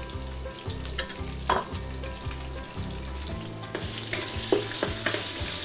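Pork fatback and garlic frying in hot olive oil in a cataplana, sizzling steadily and getting louder about four seconds in as a spatula stirs them, with a few sharp knocks along the way.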